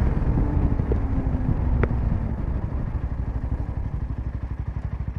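Royal Enfield Himalayan 450's single-cylinder engine running through an aftermarket Power Rage exhaust while the bike slows. The exhaust beat gets slower and quieter, with the separate firing pulses standing out toward the end.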